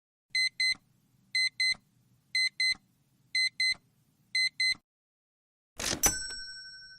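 Digital alarm clock sound effect: five pairs of short, high beeps, about one pair a second. About six seconds in comes a sudden hit with a ringing tone that fades away.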